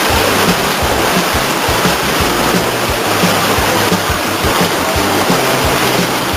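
Steady hiss of heavy rain, with music and its low bass notes underneath.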